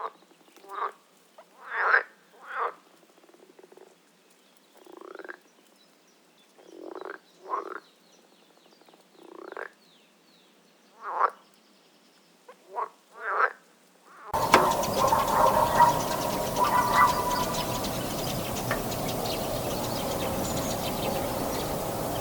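Frog croaking: about a dozen short single croaks spaced a second or two apart, some rising in pitch. About fourteen seconds in, this cuts off abruptly into a louder, steady, noisy background sound.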